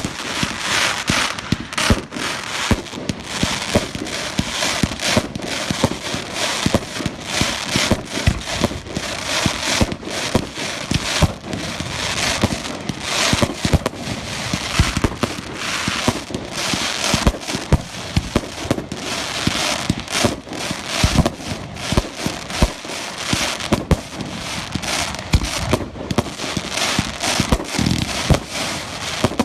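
Fireworks going off continuously: a dense barrage of sharp bangs and crackling with no let-up.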